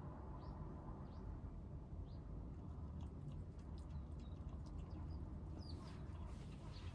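Kittens eating: faint scattered clicks of chewing over a steady low rumble.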